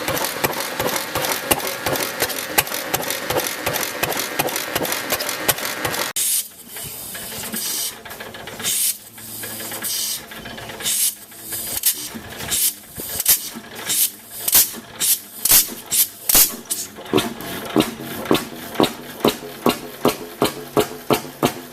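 Old Fairbanks Morse stationary engine running steadily. About six seconds in it cuts to another large old engine starting: separate sharp exhaust beats, uneven at first, settling into a regular beat of about two a second near the end.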